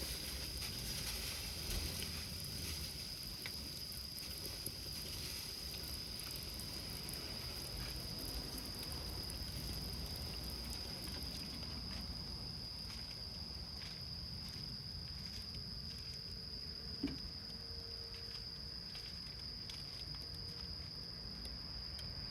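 Small wood fire burning in a tin can, with sparse faint crackles and one sharper pop about 17 seconds in, under a steady high insect trill.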